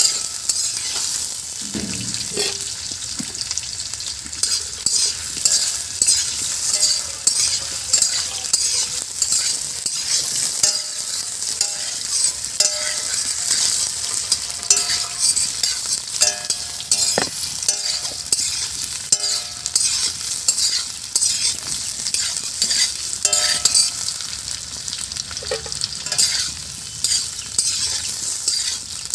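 Potato chunks and carrot pieces sizzling as they fry in oil in an iron kadai, with a metal spatula scraping and knocking against the pan as they are stirred over and over.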